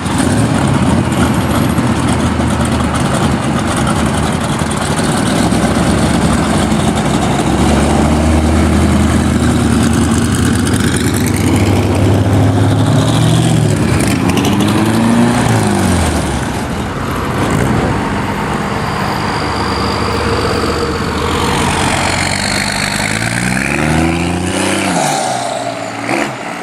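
A motor vehicle's engine running loudly and revved twice, its pitch rising and falling back once around the middle and once near the end.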